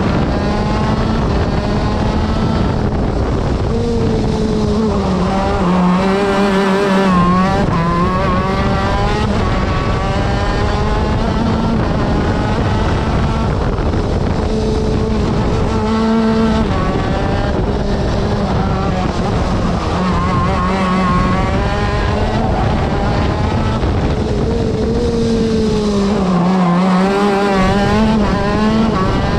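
TM Racing two-stroke kart engine running hard on track. Its pitch climbs and falls over and over as it accelerates and backs off, and drops lower twice as the kart slows.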